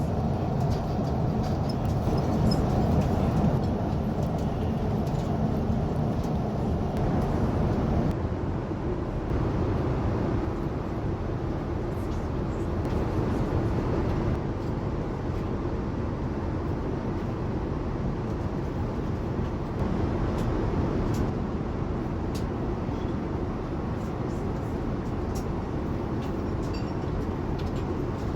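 Steady low rumble inside the cabin of a Boeing 787-9 airliner, with a few faint clicks; it eases slightly about eight seconds in.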